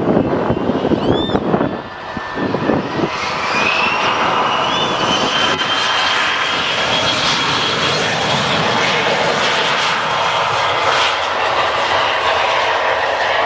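Jet aircraft engines running loud and steady, with a high whine that rises in pitch about two seconds in and then holds, over a broad rush of engine noise.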